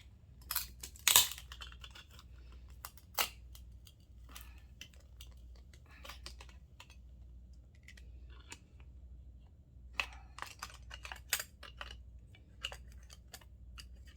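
Irregular sharp clicks and taps of small doorknob parts and a hand tool being handled and pried during disassembly, loudest about a second in, with a busy run of clicks near the end.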